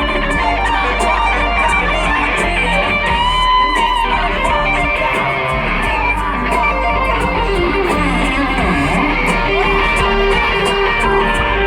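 Loud live band music with electric guitar to the fore and no vocals: an instrumental stretch of a live rock-pop set.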